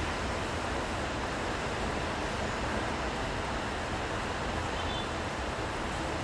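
Steady city street traffic noise, an even wash with no distinct passing vehicles or other events standing out.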